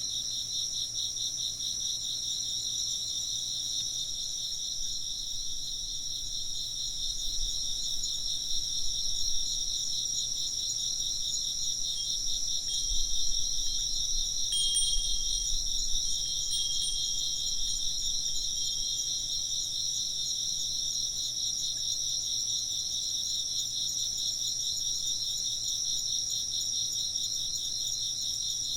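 A dense, steady chorus of chirping insects, pulsing rapidly and without a break. About halfway through, a wind chime rings a few faint high notes.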